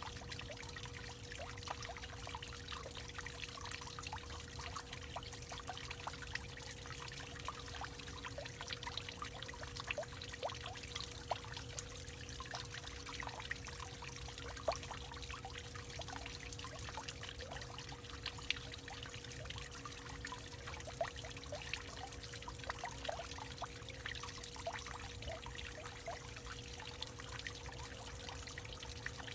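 Water trickling and pouring in a hollowed-out tree, with many small drips and splashes, over a faint steady hum.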